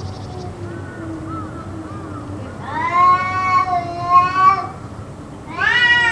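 Cats caterwauling: a low, drawn-out moaning yowl with a second, louder and higher yowl over it from about three seconds in for nearly two seconds, and another loud yowl starting near the end. It is the kind of long yowling standoff that the uploader wonders may be a cat fight.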